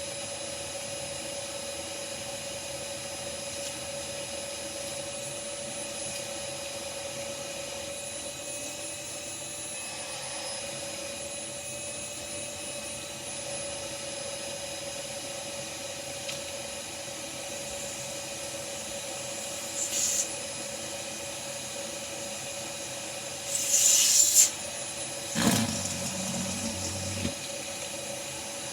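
Vacuum cleaner motor running with a steady whine, along with a rubbing, scraping noise. In the last third there are two brief louder rushes of air, then a knock followed by a short low rumble.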